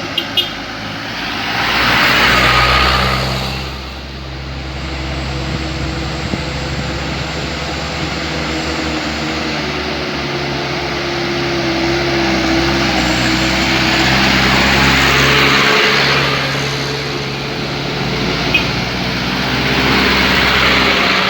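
Motor vehicles running: a steady low engine hum, with passing traffic swelling up and fading away three times, near the start, about two-thirds in and near the end.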